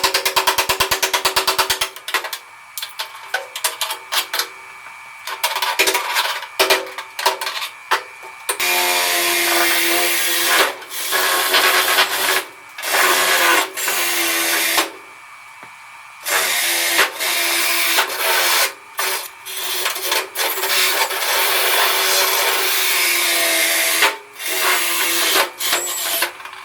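Power cutting tool on a car fender's sheet metal, run in repeated stop-start bursts to cut off the fender's lower section. It opens with a couple of seconds of fast, even chatter, then goes on in bursts, each with a steady whine.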